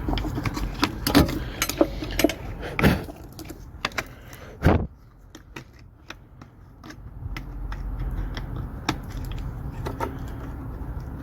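Nissan ZD30 diesel being cranked to start, a low rumble with keys clinking and sharp clicks over it. A loud knock comes at about four and a half seconds, the rumble drops away for about two seconds, then comes back.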